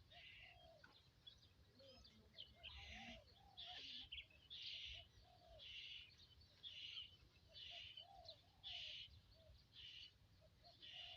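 Faint bird calls, with a soft rasping sound repeating about once a second.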